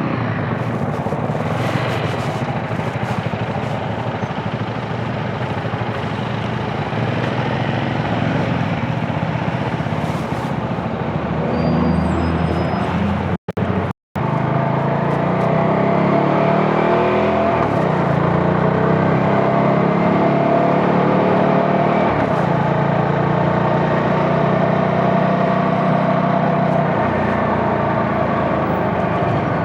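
CFMoto 250NK's single-cylinder engine running under way, its pitch rising and falling as it revs through the gears, over road and wind noise. The sound cuts out twice briefly about halfway through.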